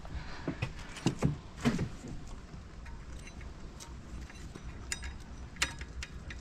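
Scattered metal clinks and knocks from hand tools and bolts being worked by hand: several in the first two seconds and a couple more later.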